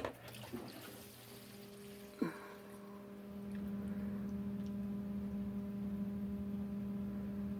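Sump pump running in its pit: a click, then a knock about two seconds in, then a steady electric motor hum that grows louder about three seconds in, with water pouring. Heavy storm rain keeps the pump running often, which the owner is unsure is normal.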